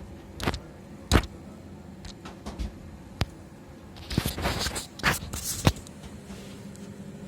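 Handling noises from repair work: a few sharp clicks and knocks, then about two seconds of scraping and rattling with more knocks, over a steady low hum.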